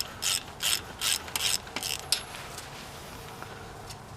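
Ratchet wrench clicking in short runs, about two or three strokes a second, as a spark plug is backed out of a VW Type 4 engine; the ratcheting stops about two seconds in.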